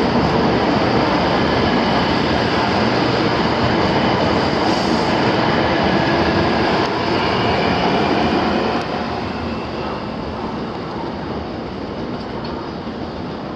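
Class 923 Doctor Yellow shinkansen inspection train departing along the platform, a steady loud rush of running noise from its cars passing close by. The noise drops suddenly about nine seconds in and carries on lower as the train draws away.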